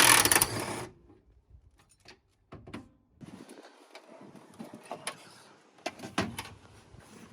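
A short loud burst of noise, then scattered sharp clicks and knocks of tools and metal parts being handled while the radiator is taken out of a Honda Civic's engine bay.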